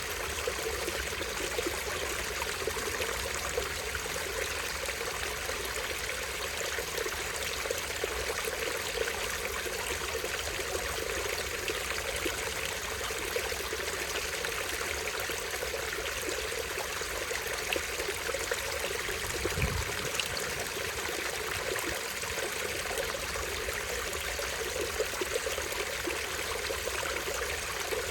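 Small stream running and trickling over rocks in a steady, unbroken splashing flow. A brief low thud about two-thirds of the way through.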